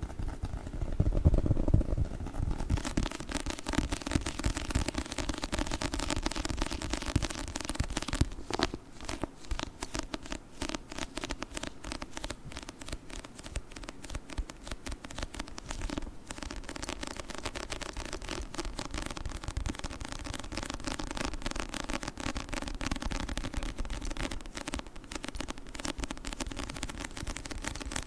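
Fingers working a book's sticky surface for ASMR, giving a dense, continuous run of fine crackling clicks, louder in the first few seconds.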